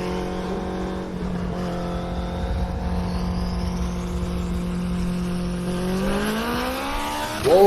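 Street-racing car engines at high revs. The note holds steady for several seconds, then climbs in pitch near the end as the cars accelerate, and is loudest at the close.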